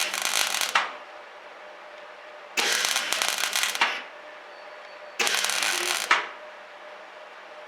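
Semi-automatic (MIG) welder tacking a patch plate onto a car body's bulkhead: three short bursts of arc crackle, each about a second long and a couple of seconds apart. A steady low hum runs between them.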